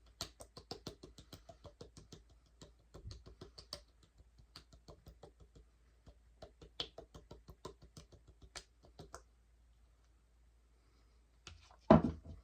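Rapid light knocking, about six taps a second in runs with short pauses, as a hot sauce bottle with a spout is shaken out, then a single louder knock near the end.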